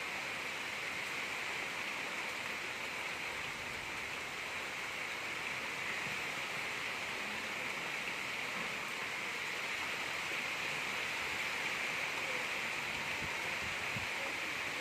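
Gentle rain falling steadily, an even hiss with no thunder.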